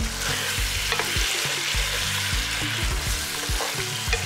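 Chicken frying in oil in a pan, with a steady sizzle and a few sharp clicks of a utensil against the pan.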